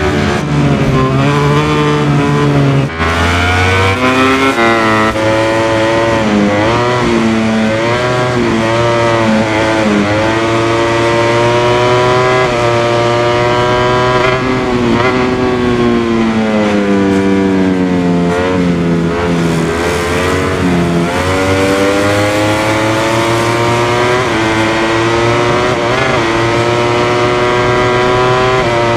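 MotoGP racing motorcycle's four-stroke engine at race speed, its pitch climbing and dropping again and again as the bike accelerates and brakes through the corners.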